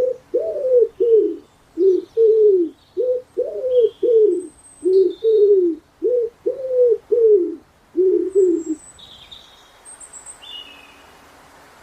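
Dove cooing in a quick run of short coos, about two a second, each rising then falling in pitch, stopping about nine seconds in. Small birds chirp faintly and high above it.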